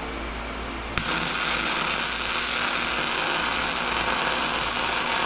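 MIG welder, turned up high, striking an arc about a second in and laying a continuous bead: a sudden onset, then a steady, even hiss.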